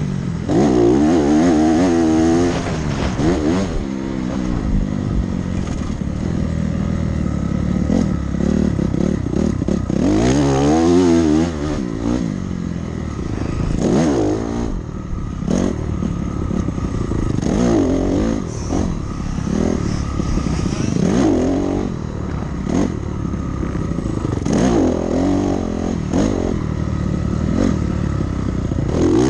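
Dirt bike engine revving hard through a lap of a motocross track, its pitch climbing and dropping again and again as the throttle is opened and rolled off.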